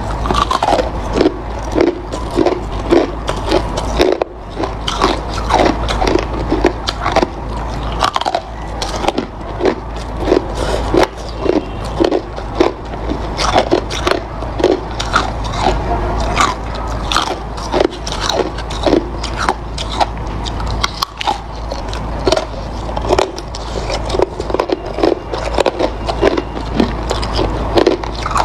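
Hard ice being bitten and chewed: a continuous run of sharp crunches, several a second, with a few short pauses.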